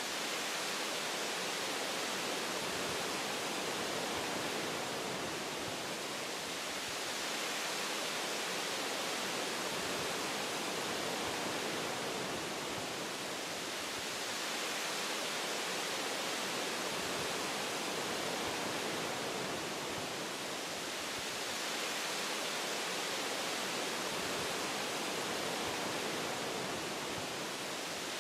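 Wind blowing through forest tree branches: a steady, even rushing hiss that swells and eases slightly every seven seconds or so.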